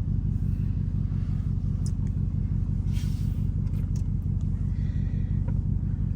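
Jeep Grand Cherokee Trackhawk's 6.2-litre V8, running with its supercharger removed, holds a steady, even low engine note. A few faint ticks sound over it.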